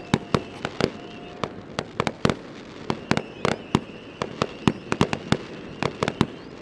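Fireworks display: a rapid, irregular string of sharp bangs, several a second, going on without a break.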